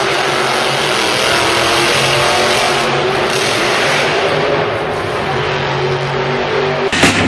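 Monster truck engine running hard at high revs, a loud steady drone over heavy noise, easing a little for a moment before rising again. Near the end it breaks off abruptly into a few sharp knocks.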